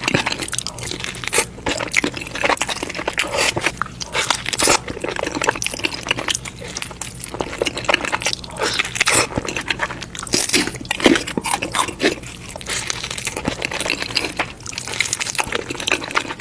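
Crunchy food being bitten and chewed close to the microphone: a continuous run of irregular crunches and crackles.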